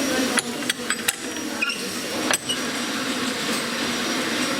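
Small metal parts and hand tools clicking as they are handled, about five sharp clicks in the first two and a half seconds, over a steady background hum.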